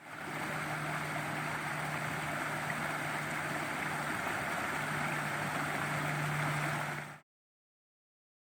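Rushing water of a stream or river running steadily, with a low steady hum beneath it; the sound cuts off abruptly about seven seconds in.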